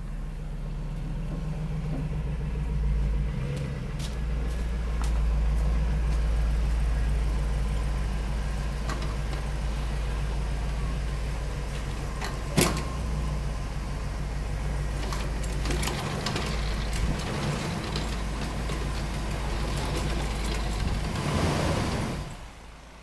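Hummer's engine running steadily at low revs as it pulls out through snow. A sharp click comes about twelve seconds in, and the engine sound drops away suddenly near the end.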